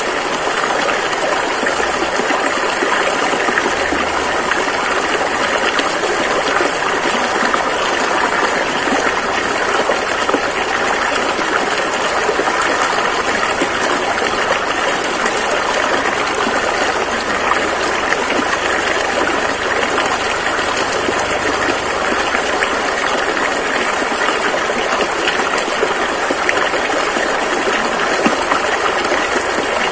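Rushing river water flowing over rocks, a steady, dense splashing hiss with no change throughout.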